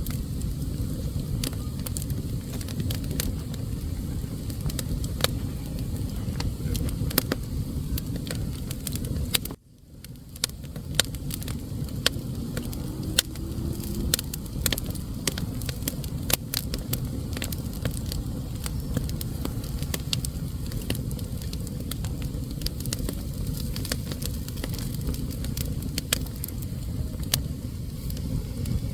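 Wood fire burning in a fireplace: a steady low rush of flame with frequent sharp crackles and pops. About ten seconds in the sound drops out for a moment, then comes back.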